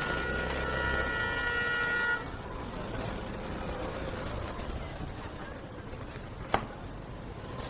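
A vehicle horn sounds one steady blast of about two seconds and cuts off suddenly, over the rumble of traffic. A single sharp knock comes near the end.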